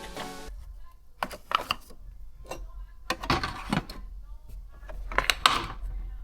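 A music tail cuts off about half a second in. Then come irregular clicks, knocks and rustling over a steady low rumble, the strongest clicks near the middle and near the end.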